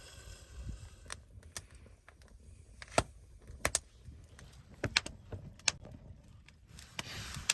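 Campfire in a small fire pit crackling, with a dozen or so sharp, irregular pops over a low rumble.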